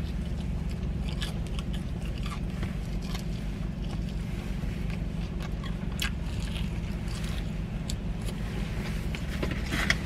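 Close-up biting and chewing of a fried chicken wing: wet mouth clicks and small crunches come and go, with one sharper click near the end. A steady low hum runs underneath.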